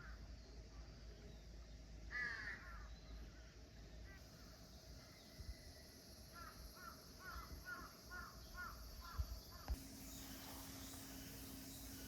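A crow cawing, faint: one call about two seconds in, then a quick run of about seven caws. Two sharp knocks near the end, followed by a steady low hum.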